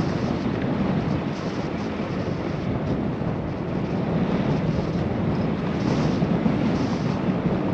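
Steady wind rushing over a bicycle-mounted action camera's microphone while riding.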